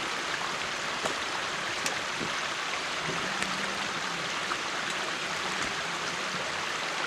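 Stream water rushing steadily at a beaver dam, with a few faint clicks.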